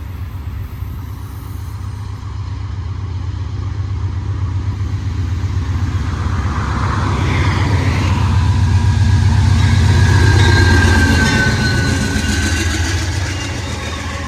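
A train passing close by. A low rumble builds to its loudest about ten seconds in and then fades, and a high, thin wheel squeal comes in over it in the second half.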